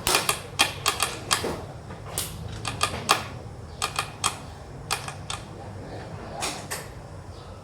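Xiangqi pieces clacking on the board as they are moved and set down: a run of sharp clicks, in quick clusters of two or three, thinning out in the last couple of seconds.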